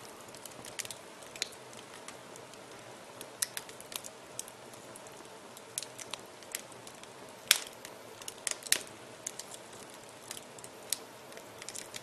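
Wood fire in a fireplace crackling: a steady low hiss with irregular sharp pops and snaps, the two loudest a little past halfway through.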